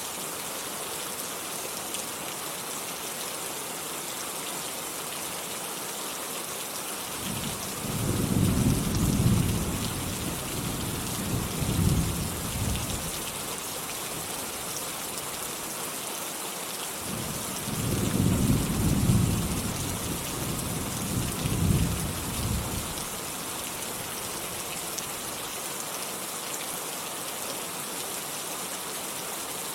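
Steady rain falling, with two low rolls of thunder about ten seconds apart, the first starting about a quarter of the way in. Each rumble swells twice over about five seconds and fades back under the rain.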